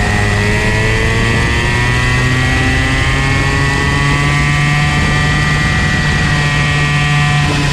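Comer C50 two-stroke kart engine running on track, its pitch climbing gradually and dipping briefly near the end.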